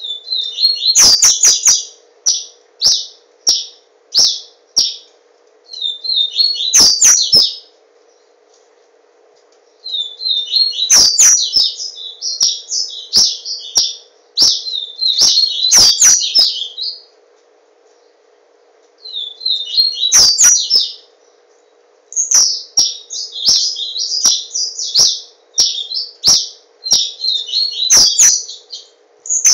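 Papa-capim, a Sporophila seedeater, singing: fast, high twittering phrases in bouts of one to three seconds, broken by pauses of a second or two. Sharp clicks sound among the phrases, over a faint steady hum.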